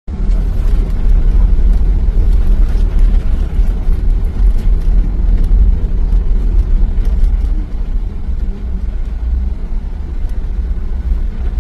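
Steady low vehicle rumble, easing slightly a little past halfway.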